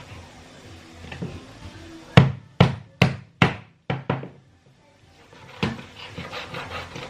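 A mallet striking the back of a knife about six times in quick succession, driving the blade through the hard bones of a fish, with one more knock a moment later.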